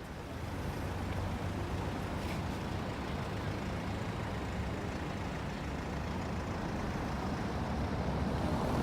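Steady low rumble of a moving road vehicle, running evenly throughout.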